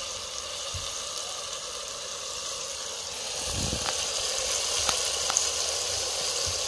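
Onions, sweet peppers and tomatoes frying in oil in a pot over an open wood fire: a steady sizzle, with a few faint pops in the second half.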